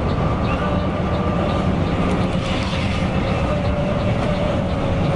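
Mercedes-Benz OC 500 RF 2542 coach under way, heard from inside: a steady engine and road rumble with a low drone and a faint constant hum.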